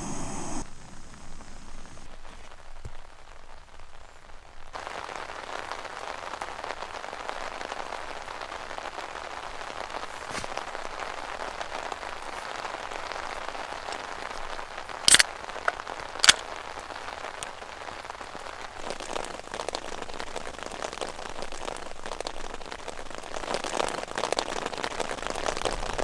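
Heavy rain falling on a tent, heard from inside it, starting strongly about five seconds in and running steadily. Two sharp clicks about a second apart near the middle stand out above it.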